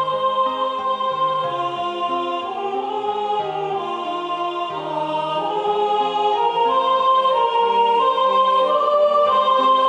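Choral part-learning track: several vocal parts in chords, holding steady notes without vibrato and changing pitch together, with the second soprano line mixed louder than the others. It grows slightly louder about halfway through.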